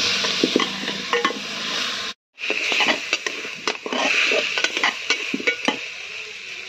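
Mutton sizzling as it fries in a metal pot, stirred with a metal spoon that scrapes and clicks against the pot. The sound cuts out for a moment about two seconds in.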